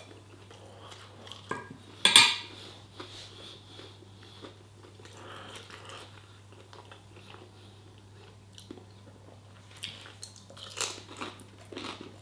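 A person eating: cutlery clinking on a plate, with biting and chewing between scattered small clicks. One loud sharp clatter comes about two seconds in, and a cluster of clicks comes near the end, over a faint low steady hum.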